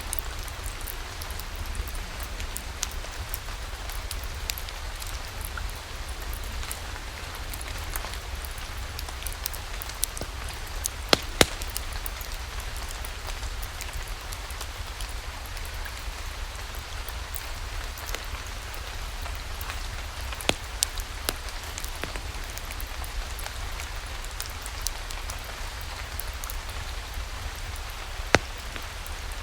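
Steady rain falling, with a low rumble underneath and a few scattered sharp pops and clicks standing out above it, the loudest in a cluster about a third of the way in.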